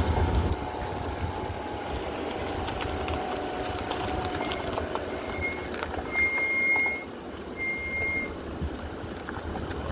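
Mercury Montego sedan driving slowly on a rough dirt truck trail. The engine and drivetrain hum falls in pitch over the first few seconds, with small knocks and rattles from the suspension over the ruts. A thin, steady high squeal sounds in four short stretches in the middle.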